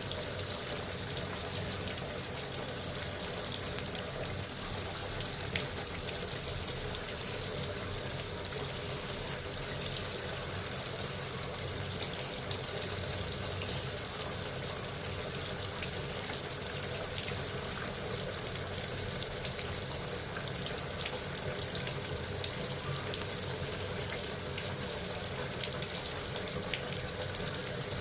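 Water running steadily inside a Sharp washing machine, a continuous rush with small splashes.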